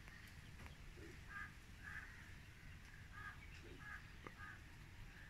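Faint short bird calls, about five of them a second or less apart, with a couple of light clicks in between.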